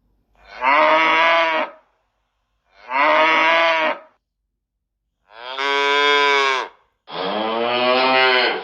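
Cow mooing: four long moos, each about a second and a half, with short pauses between them.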